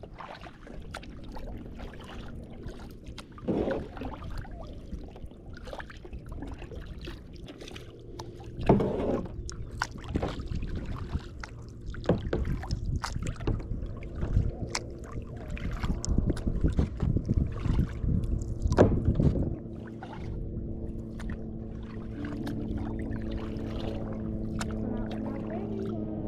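Kayak paddle strokes dipping into the water, with splashes, drips and small knocks on the hull. About two-thirds of the way through, a steady low drone comes in and holds.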